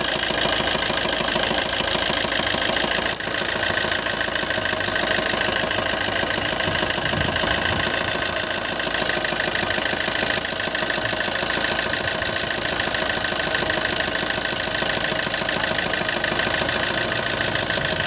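Maruti Suzuki Ertiga Smart Hybrid engine idling with a fast knocking tick: the engine fault shown here, with unsteady revs and smoke, which the mechanic treats by servicing the fuel injectors. The sound dips briefly about three seconds in.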